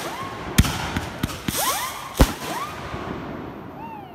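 Consumer fireworks going off: several sharp bangs, the loudest a bit over two seconds in, with pitched tones between them that rise and then fall. The show fades toward the end.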